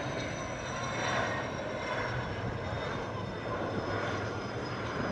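Aircraft jet engine running, a steady rushing noise with thin, high whining tones.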